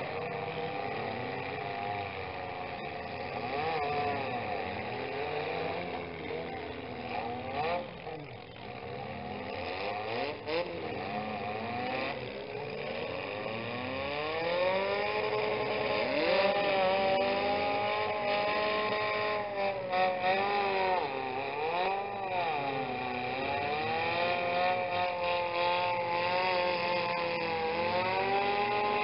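Engines of several compact demolition-derby cars revving up and down, overlapping, getting louder about halfway through, with a few short sharp knocks near the middle.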